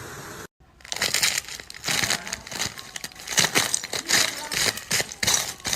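Dense, irregular crunching and crackling, like brittle material being crushed, starting after a brief silence about half a second in.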